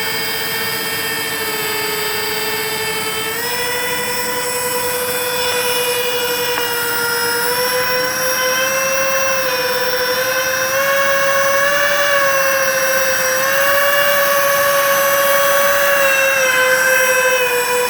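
Electric ducted-fan motors of a radio-controlled Airbus A330-600 model airliner, whining steadily. The pitch steps up about three and a half seconds in as the throttle is advanced, climbs gradually with small wobbles, and falls away near the end as the throttle comes back.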